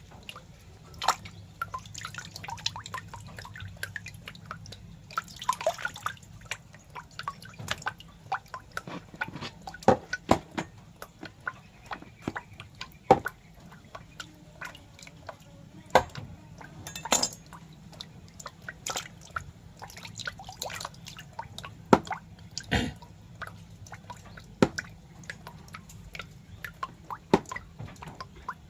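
Irregular wet clicks and drips, a few a second, some much louder than others, over a faint steady low hum.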